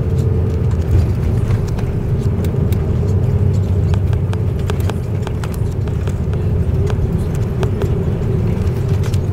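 Airbus A330-200 rolling on the ground after landing: a steady low rumble with frequent small clicks and rattles.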